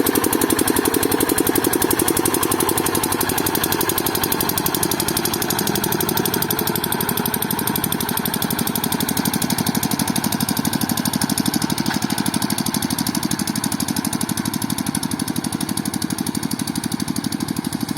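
Hand tractor engine running steadily with a rapid, even firing beat.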